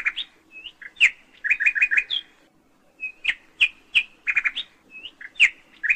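Bird chirping: short, sharp notes, some single and some in quick runs of three to five, with brief pauses between the groups.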